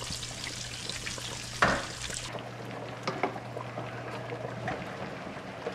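Breaded mozzarella bricks frying in a pan of oil at 325 degrees: a steady crackling sizzle with many small pops, and one louder burst about one and a half seconds in.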